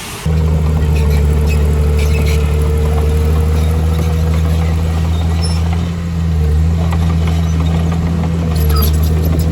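A heavy-machine diesel engine running steadily with a deep, even drone that starts abruptly just after the start and dips briefly about six seconds in.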